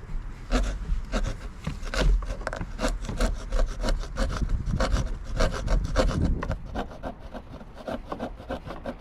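Hand saw with a push-cutting drywall-type blade sawing into dry deck wood, in short quick rasping strokes at about three a second. The strokes grow fainter near the end.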